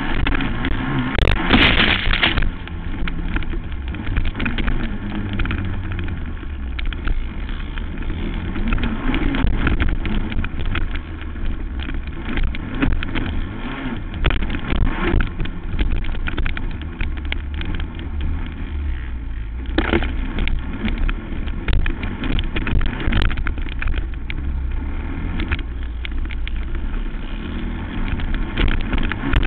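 Racing quad (ATV) engine running hard on a motocross track, its pitch rising and falling as the throttle opens and closes. Frequent short knocks run through it, with a brief loud rush about two seconds in and another past the middle.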